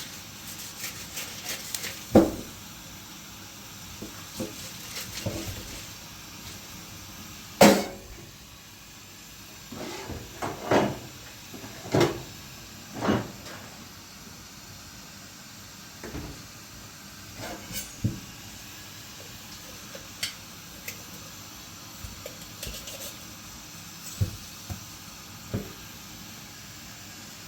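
About a dozen irregular knocks and clatters, like objects being handled and set down, over a steady low hiss. The sharpest knock comes about eight seconds in.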